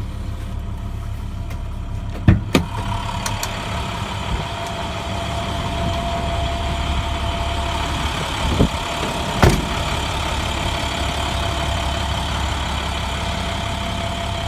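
International DuraStar 4300's MaxxForce DT diesel engine idling steadily, with a few sharp knocks about two seconds in and again near the middle. A steady higher whine joins the idle a few seconds in and holds.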